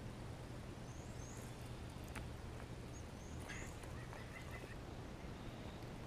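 Faint small birds calling: a few short, high gliding chirps and a quick run of lower notes a little past the middle, over a steady low outdoor hum.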